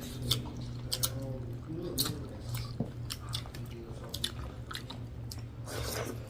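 Close-miked chewing of a mouthful of rice and dal, with irregular wet mouth clicks and smacks. A steady low hum runs underneath.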